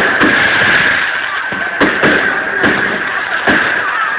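Fireworks going off in a display: several sharp bangs about a second apart over a steady crackling din.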